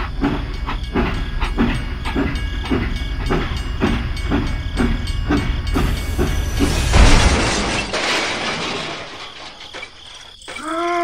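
Toy steam locomotive running on plastic track: a rhythmic chugging at about two and a half beats a second over a low hum. About six seconds in a loud hiss takes over and fades away over the next few seconds. Near the end a short tone rises and falls.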